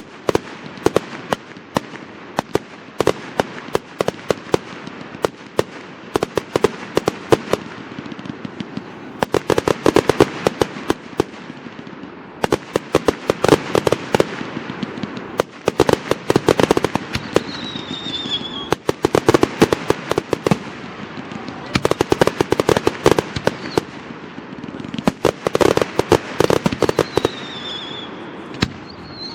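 Fireworks display: continual sharp cracks and pops, swelling into dense crackling volleys about every three seconds, with two short falling whistles near the end.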